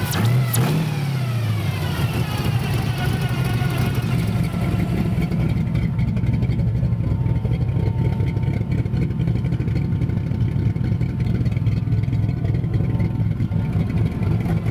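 Chevrolet 283 small-block V8 running on a freshly rebuilt and tuned Holley 660 carburetor. The engine is blipped once near the start, its speed rising and falling back, and then idles steadily.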